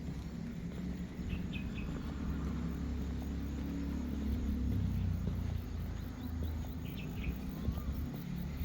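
Outdoor ambience: a steady low rumble with a few short bird chirps.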